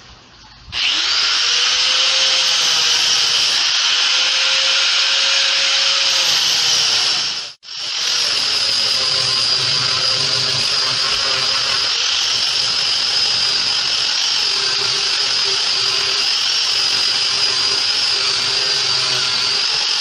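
Electric power sander spinning up and running steadily on the boat's fiberglass hull, with a high whine. It cuts out for a moment about a third of the way through and starts up again.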